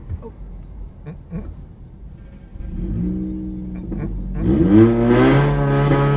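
Car engine revving up: a rising pitch about three seconds in, then running loud and high from about four and a half seconds in.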